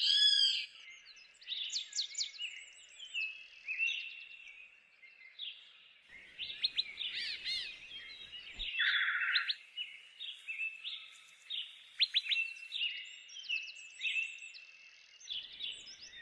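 Birdsong: several birds singing in short repeated high chirps, trills and whistled glides.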